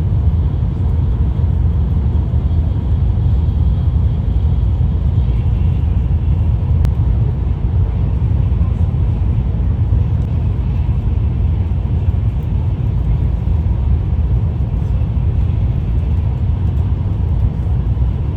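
Steady low rumble of a Shinkansen bullet train on the move, heard from inside the passenger cabin, with a single faint tick about a third of the way through.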